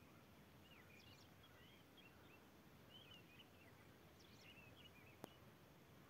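Faint birdsong: a small bird singing short, quick chirping phrases, two bursts of them, over a low steady hiss. A single sharp click just after five seconds.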